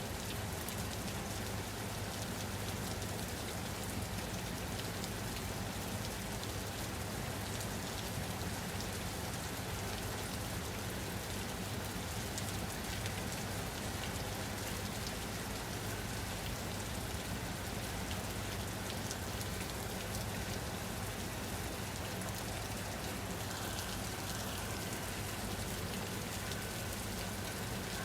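Steady rain falling, an even hiss dotted with fine drop ticks, over a constant low hum.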